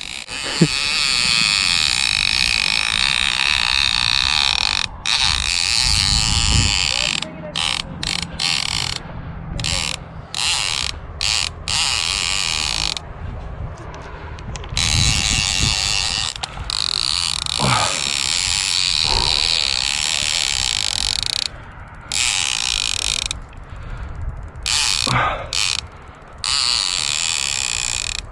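Fishing reel drag buzzing as line is pulled off by a hooked shark, which the anglers take for a tiger shark. It runs in long stretches broken by short pauses.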